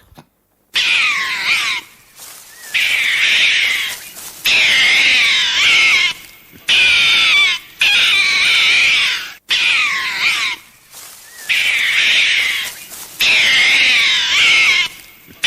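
An animal calling loudly over and over: about eight high, wavering calls of a second or two each, separated by short gaps.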